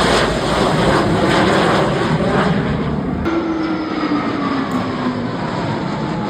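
Fighter jet engines roaring as the aircraft pass low overhead. About three seconds in the sound changes abruptly, and a whine whose pitch slowly falls rides on the roar as a jet passes and recedes.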